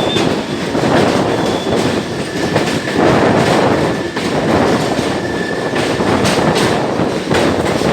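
Passenger express train running over a railway bridge: a steady rumble of wheels with repeated clacks over the rail joints, and a thin, high wheel squeal that comes and goes.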